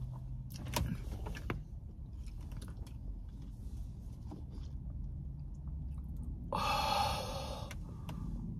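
Close-up chewing and mouth sounds of a person eating, with a few soft clicks about a second in. About six and a half seconds in comes roughly a second of scraping: a plastic spoon in a plastic tub of mashed potatoes and gravy.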